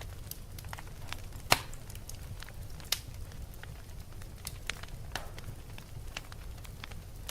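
Fire crackling: irregular snaps and pops over a steady low rumble, with one loud pop about one and a half seconds in and a sharper snap about three seconds in.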